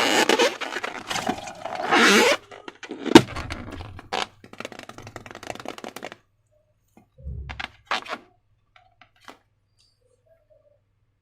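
Hands handling balloon and slime-making materials: rubbing and crinkling, then one sharp snap about three seconds in, followed by a few light clicks and taps that thin out to scattered ticks.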